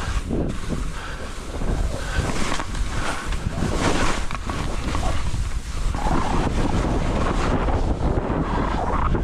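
Wind buffeting the microphone of a skier on the move, a loud rushing that swells and eases, with the hiss of skis running through heavy snow.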